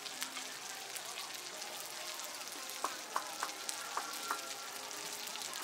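Battered steak cutlets sizzling and crackling in shallow oil in pans over gas burners. Between about three and four seconds in come several sharp metallic clicks as metal tongs knock against the pans.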